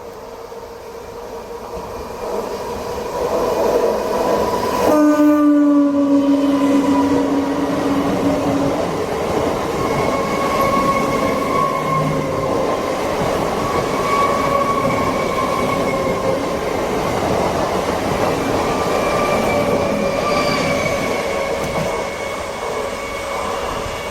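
Train approaching and passing close by, its horn sounding for about four seconds from around five seconds in. The rumble of the coaches and a steady metallic whine carry on to the end.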